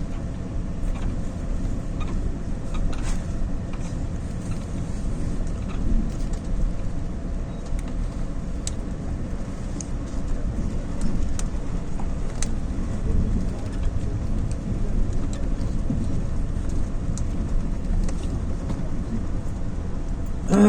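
Steady low rumble of a motor vehicle running, with faint steady tones above it and no sudden events.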